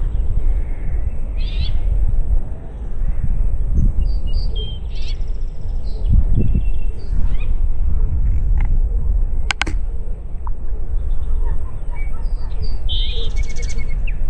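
Outdoor lakeside ambience: a steady low rumble of wind on the microphone, with scattered short bird chirps and calls throughout and a single sharp click near the middle.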